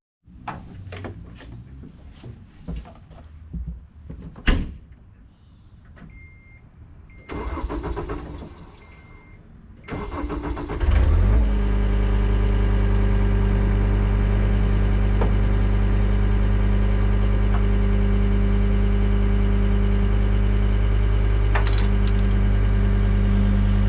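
A John Deere 326D skid steer's diesel engine starting about ten seconds in, then idling steadily. Before it start, a few clicks and knocks and short electronic beeps.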